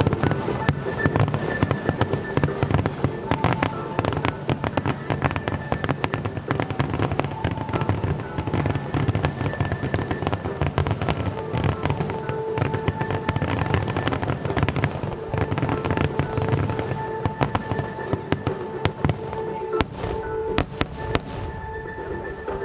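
Fireworks display: a continuous rapid barrage of shells bursting, cracking and popping, typical of a starmine rapid-fire sequence. Music with steady held tones plays alongside.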